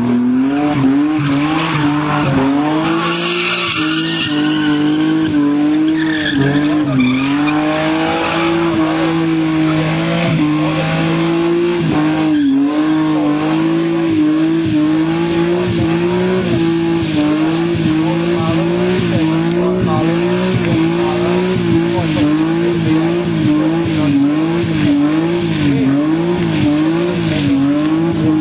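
Toyota Celica Supra's 5M-GE straight-six held at high revs during a skid, its pitch wavering up and down, over the squeal of spinning tyres.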